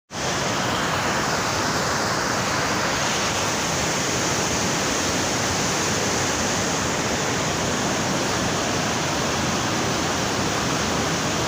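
Torrential rain pouring down: a steady, even hiss.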